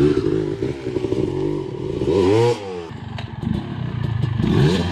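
Off-road vehicle engine revving, its pitch rising and falling a few times, with a drop in level about three seconds in.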